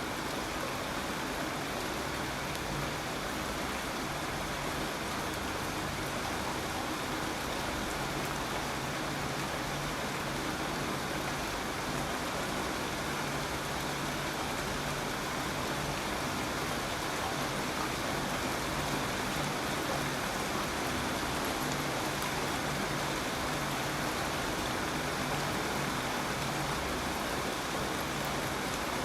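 Steady, dense rainfall: an even rushing hiss of rain with no single drops standing out.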